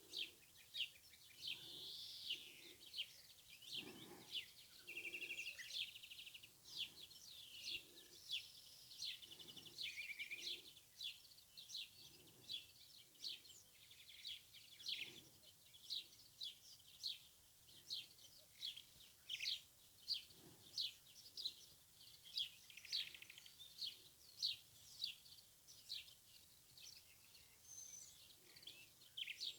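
Birds chirping: a long run of short, high chirps, about one a second, with a few longer warbled phrases mixed in, over a faint outdoor background.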